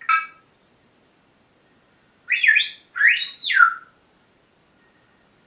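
Pet parrot calling: a short call right at the start, then two longer calls about two seconds in whose pitch glides up and down.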